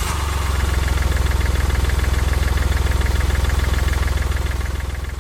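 Vehicle engine idling steadily, just after starting up.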